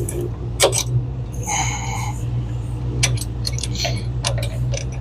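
Scattered light metallic clicks and clinks of bolts, washers and tools being handled while the engine's motor mount bolts are fitted, over a steady low hum. There is a brief scrape about a second and a half in.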